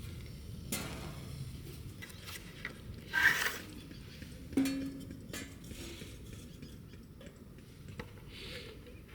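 Scattered knocks and clatter of things being handled, with a louder rustling burst about three seconds in and a metallic clank that rings briefly about four and a half seconds in.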